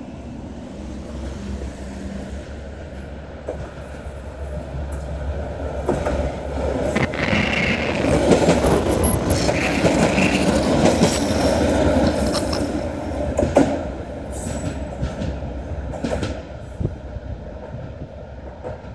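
A two-car Shigaraki Kohgen Railway diesel railcar approaching, passing close by and drawing away. Its engine hum rises to a peak as it passes, about eight to thirteen seconds in, with a brief high wheel squeal. As it recedes, its wheels click over the rail joints.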